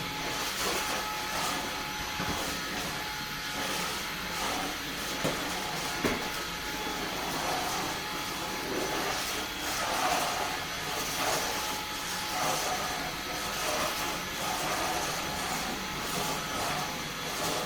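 Eufy HomeVac S11 cordless stick vacuum running steadily, a motor hum with a faint whine, its sound swelling and easing every second or so.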